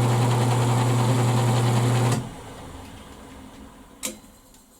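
Small electric motor spinning a grooved wooden edge burnisher for leather, a steady hum that is switched off about two seconds in and winds down slowly. A single sharp click near the end.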